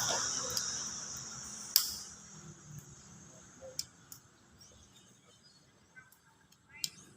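Distributor cap being fitted onto an engine's distributor: a sharp click about two seconds in, then a few faint clicks and taps. A hiss fades away over the first two seconds.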